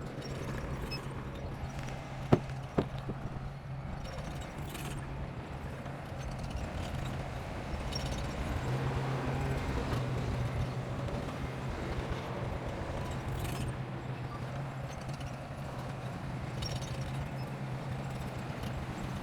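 Bulldozer's diesel engine running steadily under work, a low, even drone, with two sharp knocks in quick succession about two seconds in.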